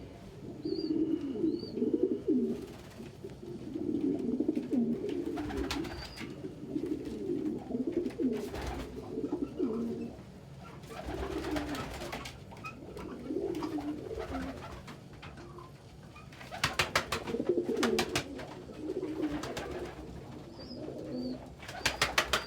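Domestic pigeons cooing over and over, several birds calling in turn. A quick run of sharp claps cuts in about three-quarters through and again at the very end.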